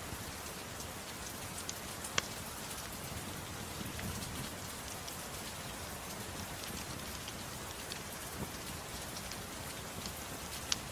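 Steady rain hiss mixed with a crackling wood fire: faint ticks throughout and two sharp pops, one about two seconds in and one near the end.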